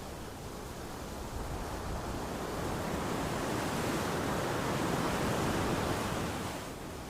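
Sea waves washing onto a shore: a steady rushing swell that builds over a few seconds, peaks, and falls back near the end.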